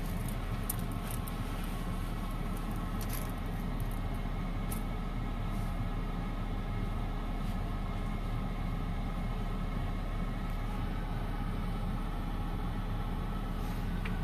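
Car engine idling, heard inside the parked car's cabin: a steady low hum, with a few faint clicks in the first few seconds.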